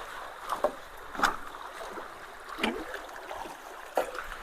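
Rain-swollen creek water rushing through a low-water-bridge culvert. A few sharp knocks or splashes come through it, about a second apart.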